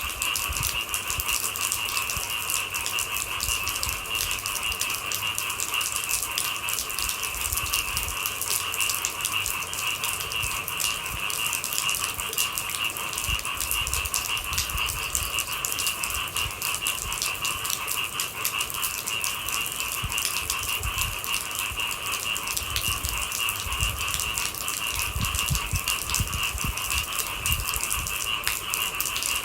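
Rain pattering densely and steadily on a hard surface, thousands of small drop clicks, over a steady high-pitched drone.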